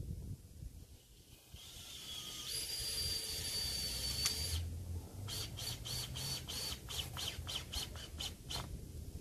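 A bird calling a rapid run of about a dozen short, sharp notes, roughly four a second, preceded by a hiss with a thin steady high whistle.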